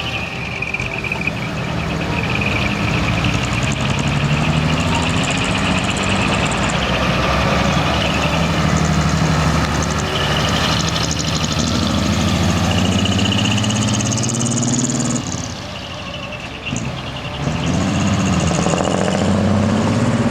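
Large diesel trucks driving out one after another, their engines revving up and easing off. The sound drops briefly about fifteen seconds in, then another truck's engine builds again.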